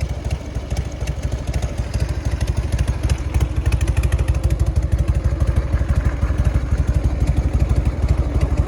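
1998 Harley-Davidson FXD Dyna's Evolution air-cooled V-twin idling with an even, pulsing beat, getting a little louder about three seconds in.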